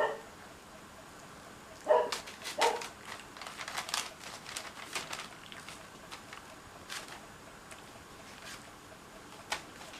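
Cocker spaniel puppies giving three short yips, the first right at the start and two more close together about two seconds in, followed by scattered small clicks and scuffles of play.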